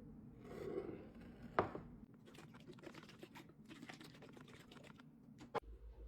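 Glass storage containers and their lids being handled: one sharp click about a second and a half in, then a run of light, irregular clicks and taps, and another sharp click near the end.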